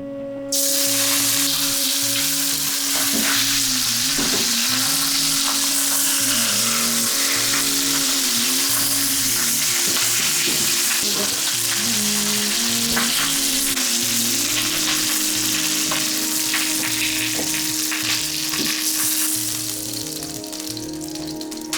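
Food dropped into a pan of hot fat and frying: a loud sizzle that starts suddenly about half a second in, holds steady, then eases off near the end.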